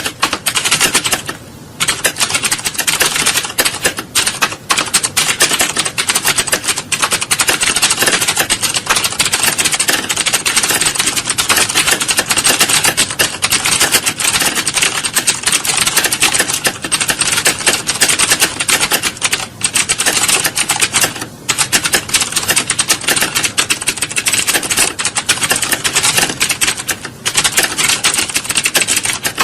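Fast typing on computer keyboards: a dense, continuous clatter of key clicks, with a brief pause a little under two seconds in.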